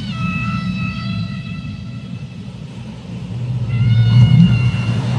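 Seagulls calling: a long, drawn-out cry that slides down at its start and holds for about two seconds, then another long cry about three and a half seconds in, over a steady low rumble.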